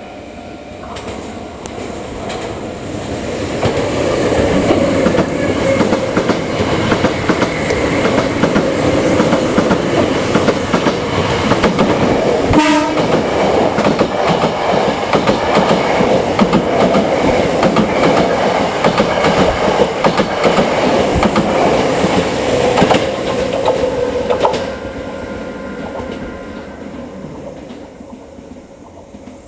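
Hankyu 5100 series electric train running past at speed, its wheels clattering over the rail joints. The noise builds over the first few seconds, holds for about twenty seconds, then drops sharply as the last car passes and fades away, with a short horn blast about halfway through. A level-crossing bell rings steadily underneath.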